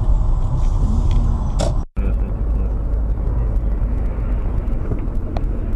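Steady low rumble of a car driving, engine and road noise, with a sudden total break in the sound about two seconds in before the same rumble continues.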